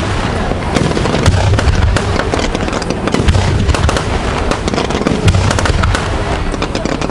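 Aerial fireworks bursting in quick succession: deep booms every second or two over dense, continuous crackling.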